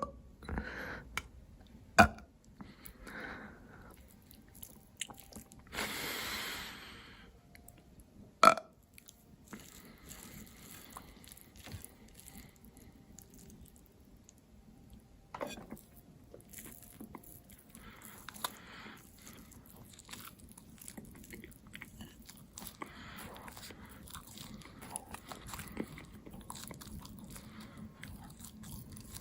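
A person chewing and biting food close to the microphone, with soft wet mouth clicks throughout and a few sharp loud clicks, and a brief hiss about six seconds in.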